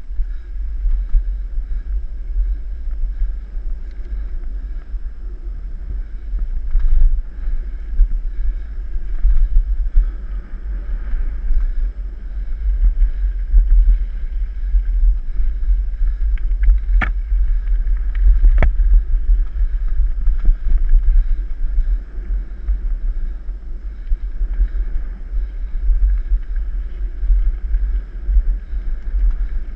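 Wind buffeting the microphone of a camera riding along on a mountain bike, a loud, unsteady low rumble throughout. Two sharp clicks come about a second and a half apart just past the middle.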